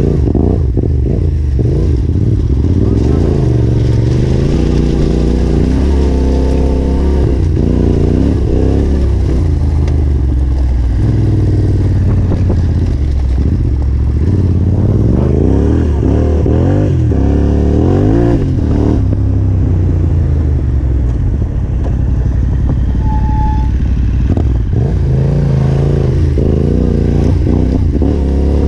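Yamaha Ténéré 700's parallel-twin engine being ridden hard on a dirt trail, its pitch rising and falling over and over as the throttle is opened and closed.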